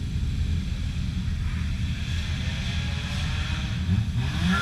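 Engines of junk race cars running on the track: a steady low rumble.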